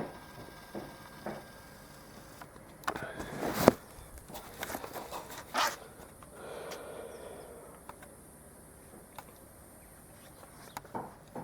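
A run of sharp clicks and knocks from handling, the loudest a single hard knock about three and a half seconds in, followed by a soft rustle.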